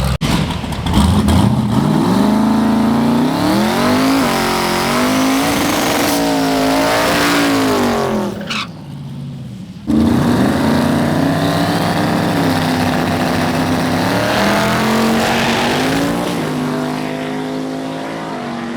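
Twin-turbo F-body's engine at full throttle in a drag race, its pitch climbing and wavering as the rear tyres spin for grip on the unprepped track. The sound falls away for about a second halfway through, then comes back suddenly at full throttle.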